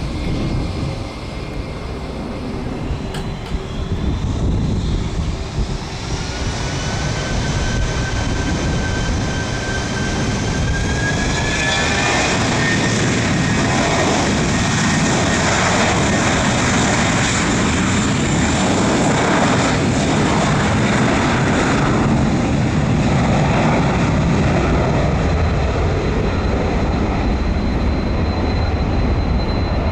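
Airbus A321 jet engines spooling up: a whine rising in pitch, giving way to a loud, steady roar from about twelve seconds in.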